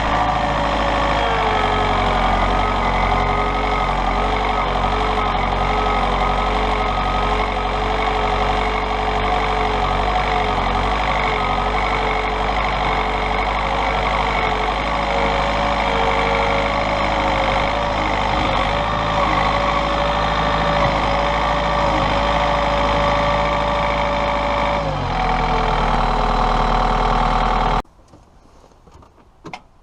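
Tractor diesel engine running steadily, its pitch wavering and shifting as the machine works; near the end the sound cuts off suddenly into quiet.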